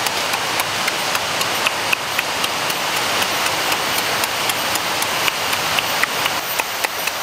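Mouth sounds of chewing food: frequent sharp wet clicks and smacks, irregular, over a steady rushing noise.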